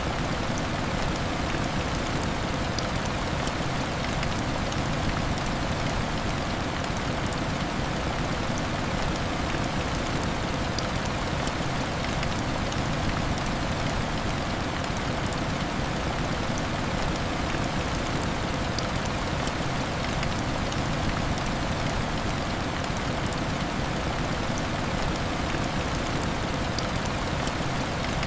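Steady heavy rain: an even, unbroken hiss with faint scattered ticks of drops.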